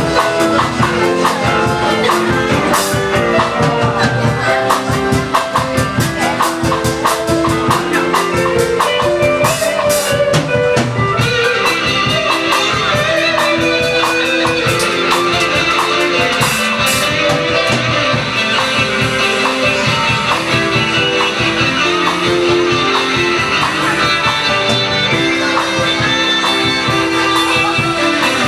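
A band playing, with guitar over bass and drum kit, without singing.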